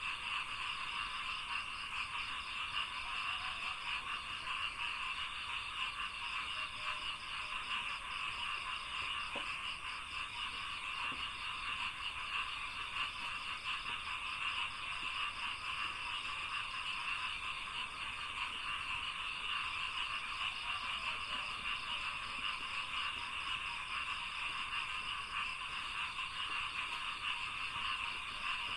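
A dense chorus of many frogs calling together in a rice paddy, an unbroken mass of rapid overlapping calls that keeps a steady level throughout.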